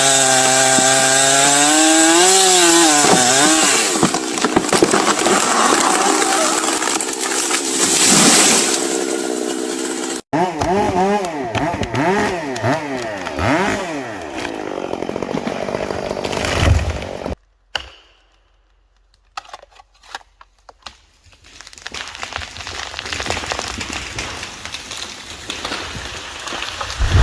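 Chainsaw running and cutting, its engine pitch rising and falling as the chain loads in the wood, with an abrupt break about ten seconds in. The saw stops about seventeen seconds in, followed by a few sharp cracks, then a swelling rush of noise ending in a loud thud.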